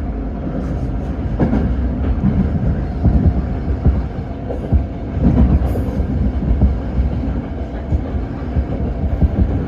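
Toyo Rapid Railway electric commuter train running, heard from inside the car: a steady low rumble with irregular knocks from the wheels over the track.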